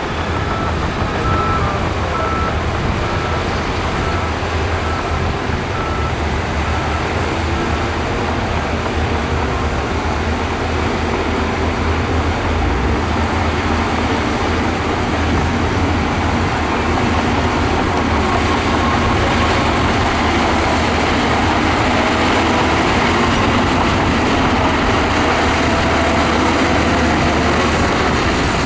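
Heavy diesel earthmoving machinery running steadily, with its engine note rising and falling under load in the second half. A back-up alarm beeps in an even rhythm for the first several seconds.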